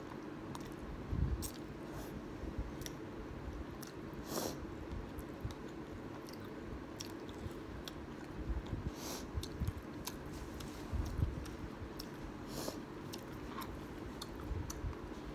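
Close-up eating sounds: chewing a mouthful of ramen noodles, with wet mouth noises and soft irregular bites. Later come light clicks of chopsticks and a metal spoon stirring the noodles in a plastic bowl.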